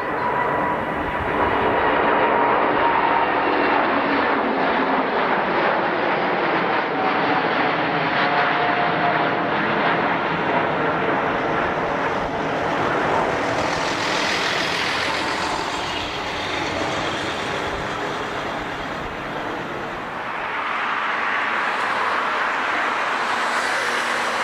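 Jet airliner engines running loud and steady, with a high whine that drifts slowly down in pitch and a fresh swell of hiss about two-thirds of the way through.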